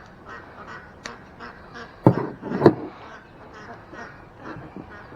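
Ducks quacking over and over in short calls, with two louder sounds about two seconds in.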